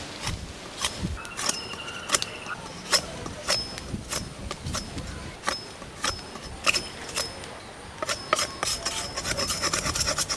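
Knife strokes on wood, a series of sharp chops at irregular intervals that speed up into a fast run of about ten a second near the end.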